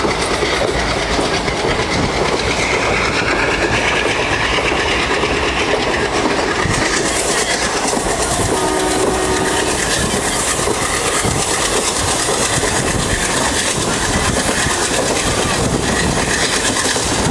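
Konkan Railway passenger train running, heard from on board: a steady rumble with the clickety-clack of wheels over rail joints. About halfway through, a horn sounds once, briefly, for about a second.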